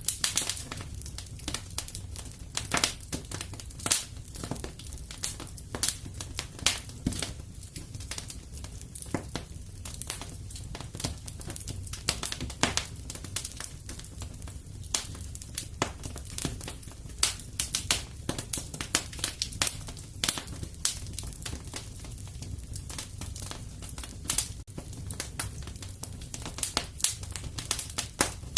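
Fire in a fireplace crackling, with frequent irregular sharp pops over a low steady rumble.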